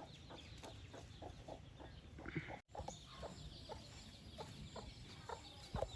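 Country chickens clucking faintly and irregularly, with high short peeps mixed in. The sound drops out briefly about two and a half seconds in.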